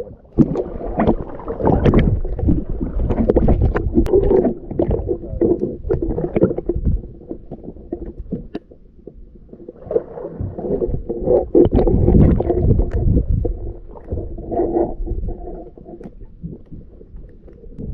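Water noise around a kayak: an uneven rumble of water against the hull that swells and eases, with scattered knocks from the boat.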